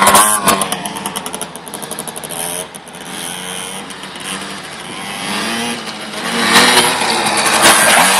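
Small KTM motocross bike's engine revving up and down as it rides, fading as it moves away and growing loud again about two-thirds of the way through.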